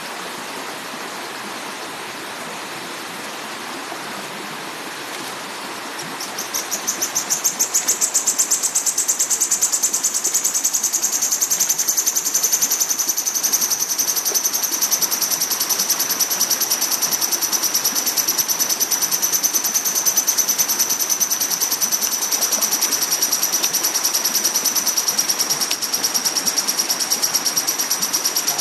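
A lovebird trilling in one long unbroken run of rapid, high chirps, starting about six seconds in over a steady hiss; the trill starts a little higher and settles slightly lower after a few seconds.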